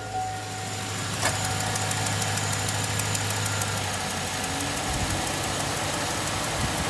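Chevrolet 5.3 L V8 idling with a fast, regular lifter tick over the engine hum. The owner has found no collapsed lifters and suspects they are clogged.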